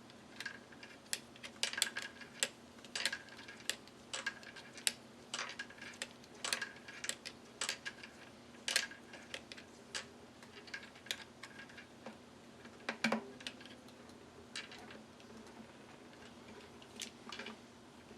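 Irregular small clicks and ticks of a tiny screwdriver and screw being worked into a ukulele tuning peg, with the little parts handled between turns.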